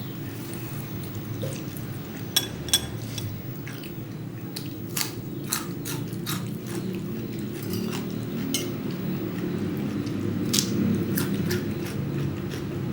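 Close-up eating sounds: chewing, with scattered sharp clicks of utensils against a bowl or plate, two louder ones about two and a half seconds in, over a steady low hum.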